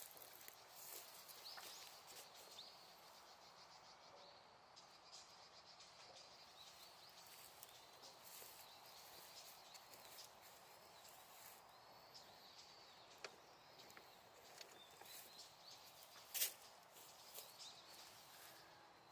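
Small wood bonfire crackling softly, with scattered sharp snaps and one louder pop near the end. Faint bird chirps in the background.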